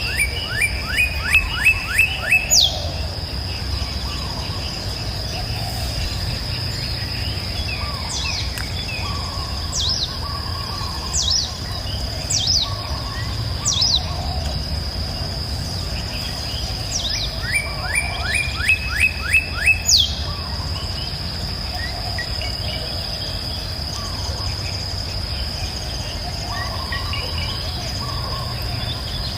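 Birdsong over a steady high insect drone: a bird gives a run of about seven quick falling notes near the start and again about two-thirds of the way through, with scattered single high down-slurred calls in between.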